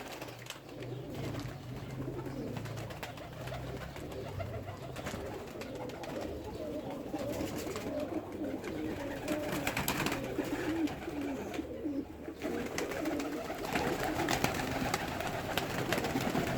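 Domestic pigeons cooing repeatedly, several overlapping calls, with a low steady hum under them for the first few seconds.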